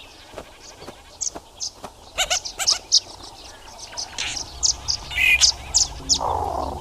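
Wild animal calls in the open: a run of short, high-pitched chirps at irregular intervals, with a lower, harsher call near the end.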